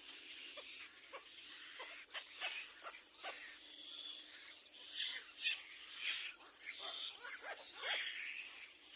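Little black cormorants at the nest giving short, noisy calls in irregular bursts, the calls coming thickest and loudest about five to eight seconds in.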